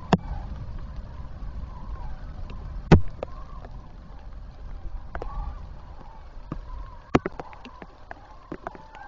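Heavy rain on an outdoor webcam microphone: irregular sharp ticks of drops striking the housing, the loudest about three seconds in, over a low rumble of rain and wind. Faint calls of a common crane flock rise and fall in the background.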